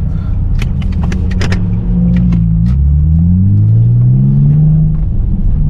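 Infiniti G35's V6 engine pulling away, its pitch climbing steadily from about two seconds in as the car accelerates. Its low rumble runs under a few sharp clicks in the first second and a half.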